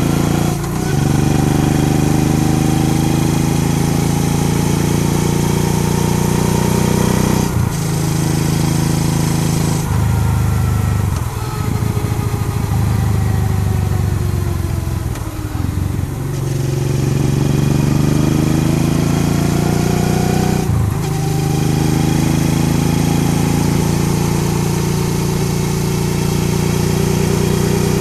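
Honda Transalp XL650V's 647 cc V-twin engine running under way, its note rising and falling with the throttle and broken by several brief dips.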